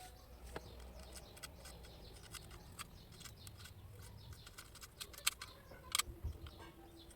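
Irregular small clicks and snips of hand work on a phone cable, as with scissors or cutters on wire.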